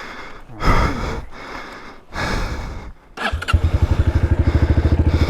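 A Honda CRF250R dirt bike's four-stroke single-cylinder engine is restarted. It turns over in two short bursts without catching, then fires about three and a half seconds in and settles into a steady, evenly pulsing idle.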